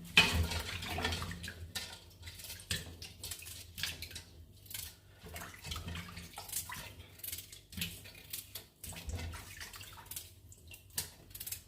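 Water splashing irregularly at a kitchen sink, with light knocks of dishes and utensils.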